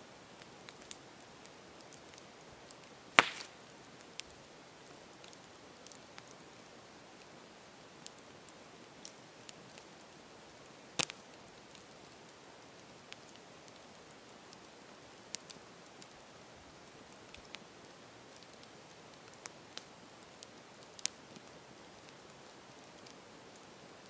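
Campfire crackling: a steady low hiss of burning wood broken by scattered sharp pops and snaps. The loudest pop comes about three seconds in and another strong one about eleven seconds in, with a few smaller ones later.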